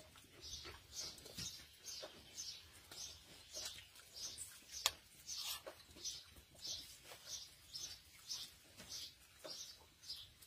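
A bird calling over and over with short, high chirps, about two a second. About halfway through comes a single sharp click.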